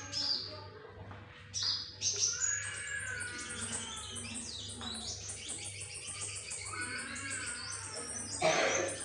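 A songbird, known locally as burung muncang, singing: a few short high chirps, then a long rapid run of high notes for several seconds, with a louder call near the end. A faint steady hum runs underneath.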